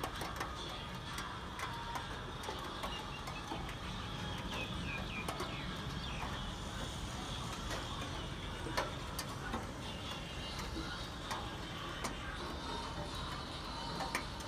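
Steady rain: an even hiss with scattered, irregular sharp taps of drops landing.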